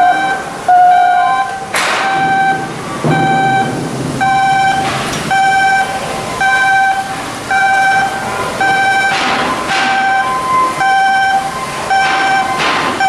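Electronic warning alarm beeping steadily, a repeating sequence of short tones that step between a few pitches, typical of an industrial crane's travel alarm. Short bursts of noise break in a few times.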